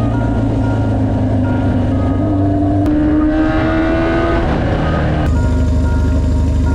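Motorcycle engine running while being ridden, its pitch climbing steadily through the middle of the clip, then changing abruptly about five seconds in, as at a gear change.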